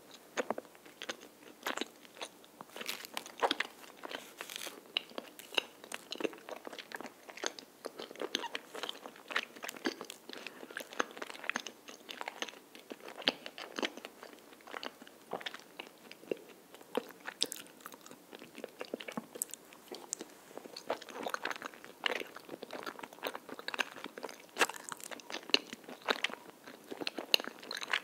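Close-miked chewing of a soft, chewy chocolate cream-filled rice cake (tteok): a steady run of irregular mouth clicks and smacks as it is bitten and chewed.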